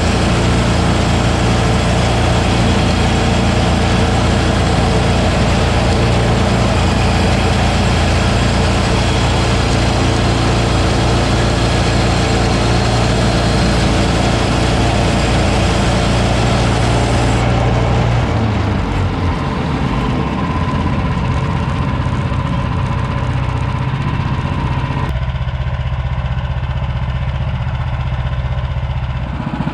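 Woodland Mills HM130max portable bandsaw sawmill running steadily under its engine, with a dense hiss over the engine note. The hiss cuts off abruptly about two-thirds of the way in and drops again near the end, leaving the engine note.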